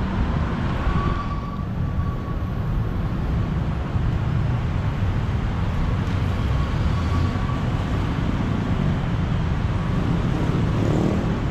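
Steady city road traffic: a constant low rumble of passing cars and engines, with a faint high whine now and then.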